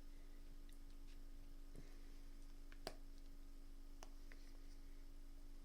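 Quiet room tone with a steady low electrical hum, broken by a few faint, separate clicks.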